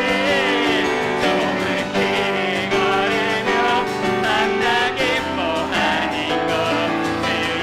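Live worship music: a praise team singing a hymn with keyboard accompaniment, held notes wavering under sustained chords.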